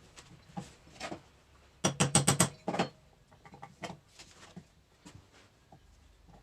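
Metal clicks and clinks from handling the parts of a hydraulic control valve during reassembly, with a quick run of about half a dozen sharp clinks about two seconds in.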